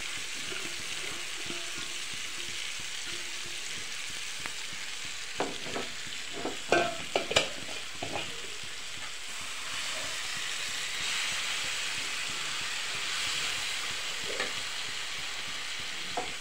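Marinated chicken pieces sizzling in hot oil in a frying pan, a steady hiss that grows a little louder in the second half. About a third of the way in, a cluster of sharp knocks and scrapes as a utensil strikes the pan.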